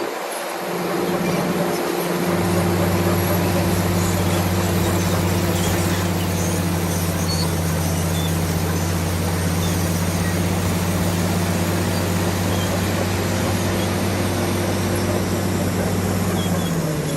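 Bulldozer's diesel engine running steadily, a low even hum over a broad rushing noise, the hum growing fuller about two seconds in.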